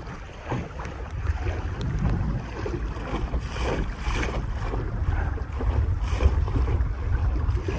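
Wind buffeting the microphone over water rushing along the hull of a small sailing dinghy moving under sail, with a few louder washes of water about halfway through.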